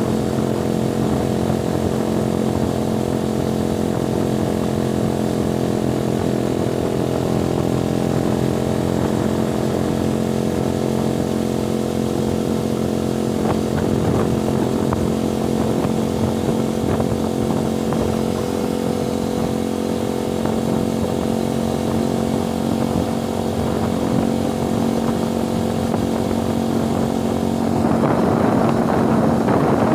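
Small motorcycle engine running at a steady speed while riding, a constant engine drone. A rushing noise comes in and grows louder near the end.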